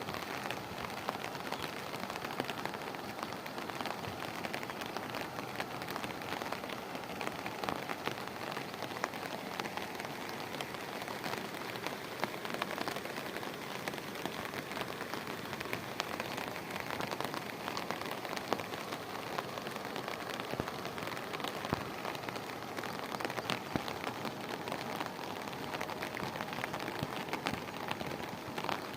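Heavy rain pouring steadily onto hard surfaces, a dense even hiss peppered with many sharp drop splats.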